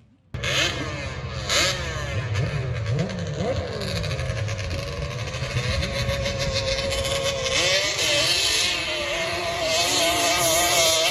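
Drag-racing quad engines revving hard, starting abruptly, with pitch repeatedly climbing and dropping, then rising more steadily toward the end.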